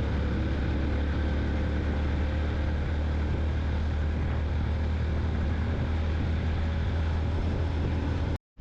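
Steady drone of a vehicle cruising on a highway: a low engine hum under wind and road noise, cutting off suddenly near the end.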